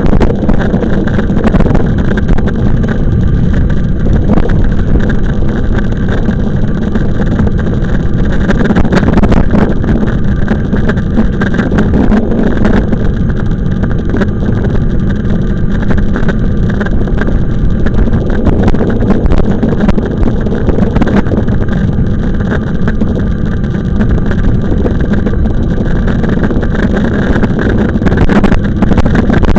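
Wind buffeting the microphone during an e-bike ride, a loud, steady low rumble.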